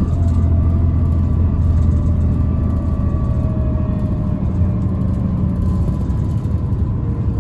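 Steady low rumble of a city bus under way, heard from inside the cabin, with a thin whine over it that sinks slightly in pitch over the first few seconds. The whine is the abnormal motor noise this bus is known for.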